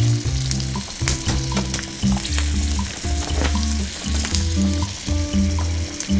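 Sausages sizzling as they fry in oil in a divided square frying pan, with sharp clicks of metal tongs turning them. Background music with a bass line plays underneath.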